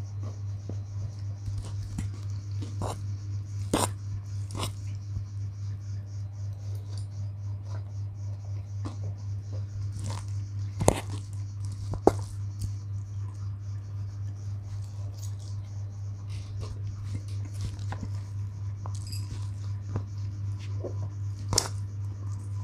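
Close-miked rhythmic chewing and slurping of mie goreng mixed with batagor. A handful of sharp clinks of a metal fork against the stainless steel bowl come about 4 s in, twice around 11–12 s and near the end, over a steady low hum.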